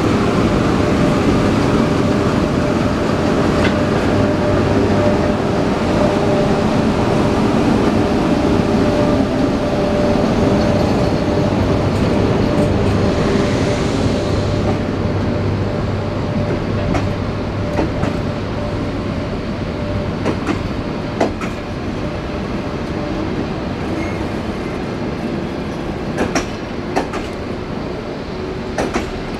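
EP1M electric locomotive departing with a passenger train, a steady hum carrying several level tones as it passes, strongest in the first half. Then the passenger coaches roll by, with sharp wheel clicks over the rail joints in the second half.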